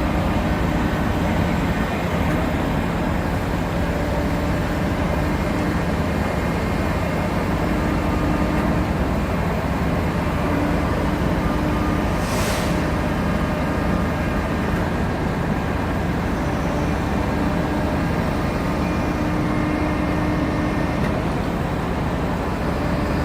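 Heavy vehicle's engine running steadily at constant speed during unloading, with a brief hiss of air about halfway through.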